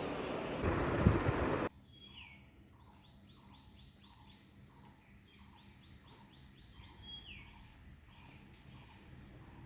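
A loud rushing noise with a thump about a second in cuts off suddenly. A quieter outdoor background follows, with a steady run of short chirps at about three a second and a falling whistled call twice.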